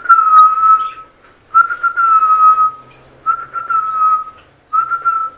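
Whistling: four long whistled notes on about the same pitch, each just under a second, the first ones dipping slightly and then holding steady, with short gaps between them.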